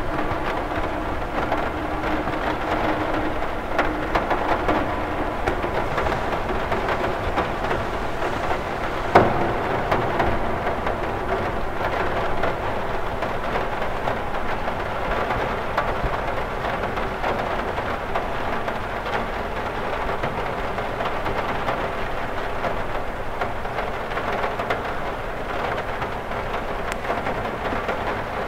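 Steady rain on a window, many small drops ticking on the glass, with one sharper hit about nine seconds in.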